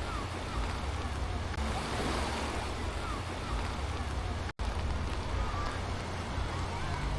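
Black Sea surf washing on the shore, with wind rumbling on the microphone and faint short calls or voices in the distance. The sound cuts out for a split second about four and a half seconds in.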